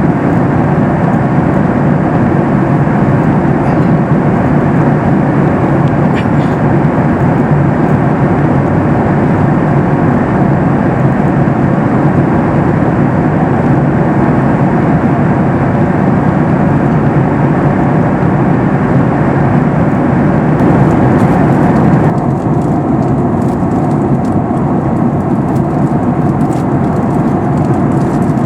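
Boeing 737 MAX 8 cabin noise in cruise: a steady roar of airflow and engines heard from inside the passenger cabin. About 22 seconds in, the upper hiss drops off abruptly and the low roar carries on.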